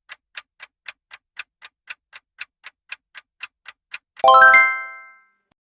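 Countdown-timer sound effect: a clock ticking about four times a second, then about four seconds in a bright multi-tone chime that rings and fades over about a second, signalling that the answer time is up.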